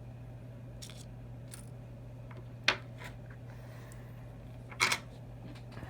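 Small clicks and taps from handling iPhone 6 parts and repair tools while the screen is reattached: faint ticks early on, a sharp click nearly three seconds in and a louder click about five seconds in, over a steady low hum.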